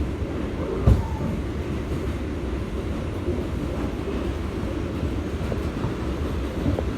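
Subway train running, a steady low rumble with one sharp knock about a second in.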